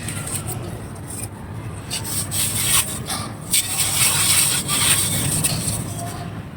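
Dry clay being crushed and crumbled under light pressure: a crisp, crackly crunching with sharp little snaps, denser and louder through the middle.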